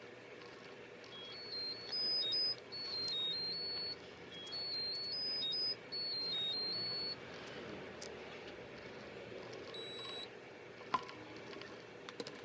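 An electronic beeper plays a short tune of high, pure tones stepping between a few pitches for about six seconds. A few seconds later comes a single separate beep, with faint clicks of handling around it.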